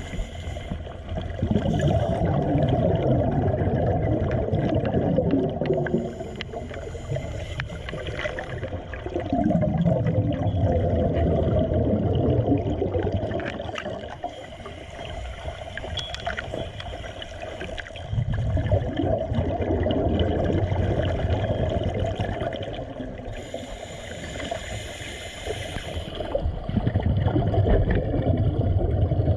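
Water sloshing and gurgling, swelling and easing every few seconds, with a few short stretches of faint hiss.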